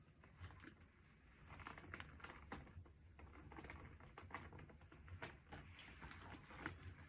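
Faint, scattered clicks and light rustling of small items being handled.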